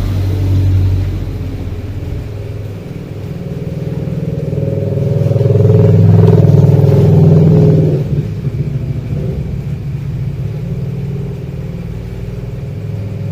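A motor vehicle engine running close by, growing louder to a peak about six seconds in, then easing off after about eight seconds.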